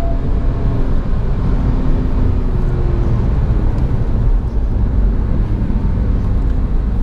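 Porsche 911 (997) Carrera's naturally aspirated flat-six running steadily while driving on track, heard onboard over a heavy, steady road and wind rumble. A faint engine tone is audible in the first couple of seconds, then sinks into the rumble.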